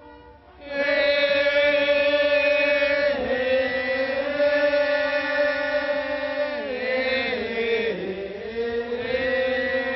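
Thai royal barge boat song (he ruea) being chanted: after a short pause, a voice holds long drawn-out notes that slide slowly downward in pitch several times.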